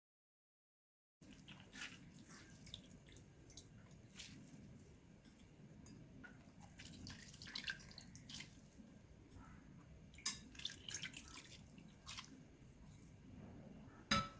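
Faint drips and small wet clicks of water squeezed from soaked lentil vadas pressed between the palms, starting after about a second of dead silence.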